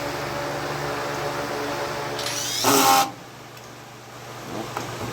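A steady machine hum, then about two seconds in a short loud burst of a power drill spinning up to drive a screw, fixing the barn board the bull broke.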